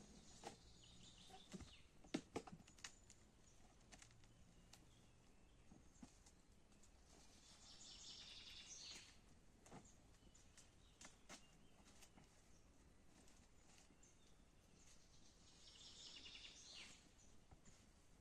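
Quiet forest ambience with a bird singing faintly twice, each phrase about a second and a half long, and a few soft clicks or knocks near the start.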